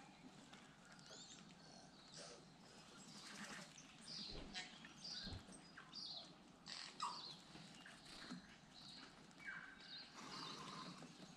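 Faint birdsong: short, scattered chirps and whistled notes, with two soft low thumps about four and a half and five seconds in.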